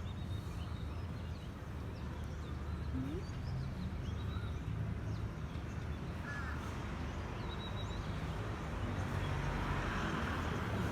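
Birds calling in short scattered chirps over a steady low rumble.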